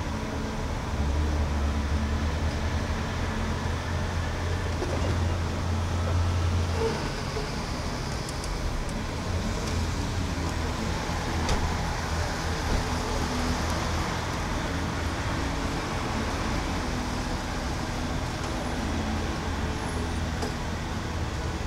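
1972 Dodge Challenger's engine idling, picked up right at the front grille: a steady low rumble under a general hiss. The rumble is strongest for several seconds near the start, then eases and comes and goes.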